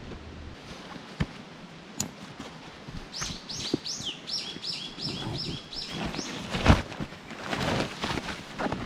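A small songbird singing a quick run of about ten repeated high notes, starting about three seconds in and lasting under two seconds. Scattered knocks and rustling handling noises around it, the loudest a sharp crunch near the seven-second mark.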